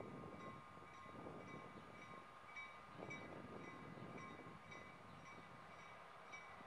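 Faint, distant sound of a freight train approaching, a low rumble under a steady tone, with a bell ringing about twice a second, typical of a grade-crossing bell.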